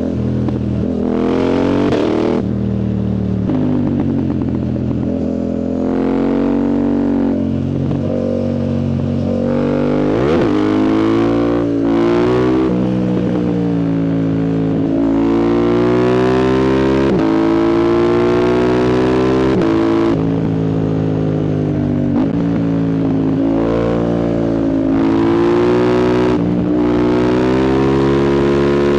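Yamaha MT-07's 689 cc CP2 parallel-twin engine through a full aftermarket exhaust with the dB killer removed, accelerating hard through the gears on the move. The pitch climbs again and again, with a brief break at each gear change.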